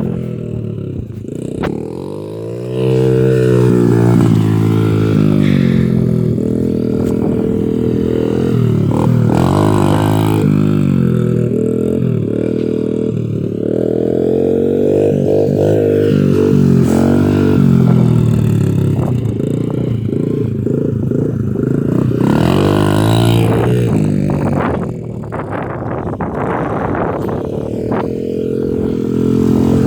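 Dirt bike engine running hard, its revs rising and falling again and again as the throttle is worked, with a short easing-off near the end.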